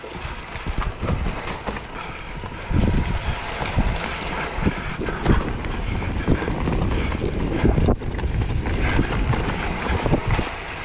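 Riding noise from an electric mountain bike on a rough woodland trail: wind buffeting the microphone over a steady rumble of tyres on dirt, with frequent knocks and rattles as the bike goes over bumps. It gets louder about three seconds in.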